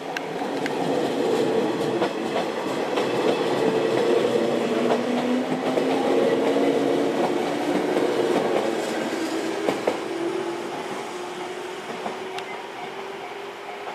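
JR 115 series electric multiple unit pulling away and accelerating, its traction motors whining in a tone that slowly rises in pitch, with the wheels clicking over rail joints. It grows louder over the first few seconds, then eases off a little.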